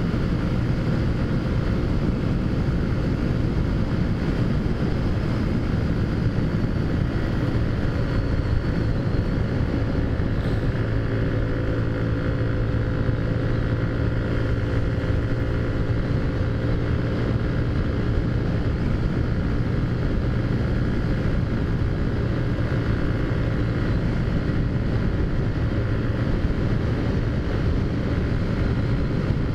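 A vehicle engine running at a steady cruising speed, holding an even hum, with road and wind noise.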